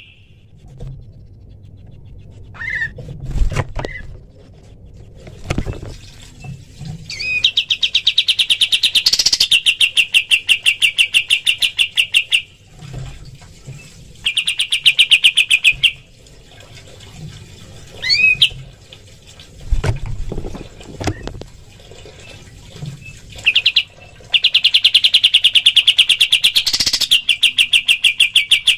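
A pied triller (kapas tembak) sings three long rattling trills of fast, evenly repeated notes, each one to five seconds long, with pauses between them. Two sharp upswept whistles and a few low thumps come in the gaps.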